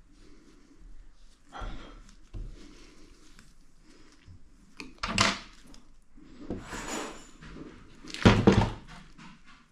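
Handling noises: a few short thunks and rustles spread out irregularly, the loudest about eight and a half seconds in.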